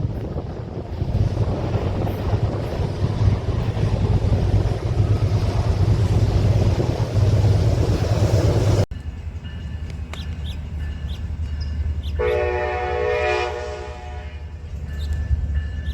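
Train passing close by, with a steady low engine hum and rolling rumble. After an abrupt cut the train sounds continue more quietly, and about twelve seconds in the locomotive's air horn gives one chord blast lasting about two seconds.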